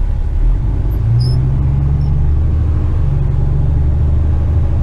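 Western Star tipper truck's diesel engine running with a steady low rumble, heard from the cab at low speed; its note lifts slightly about a second in.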